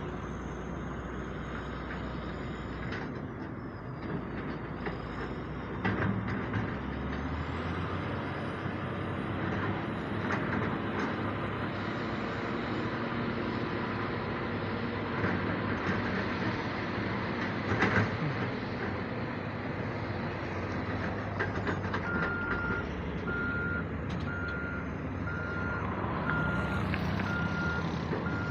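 Diesel excavator and dump truck running steadily while soil is dug and loaded, with a few sharp clunks. About 22 seconds in, a reversing alarm starts beeping steadily, about once a second.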